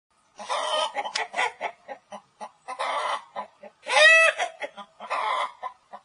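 Chickens clucking: short clucks broken by several longer squawking calls. The loudest is a drawn-out call about four seconds in that rises and then falls in pitch.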